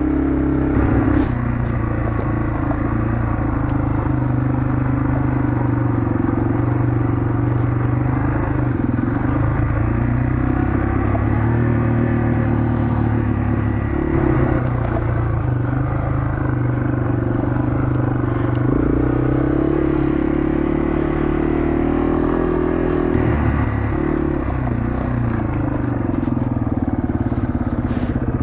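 Yamaha TW200's single-cylinder four-stroke engine running as the bike rides along, its pitch rising and falling slightly with the throttle.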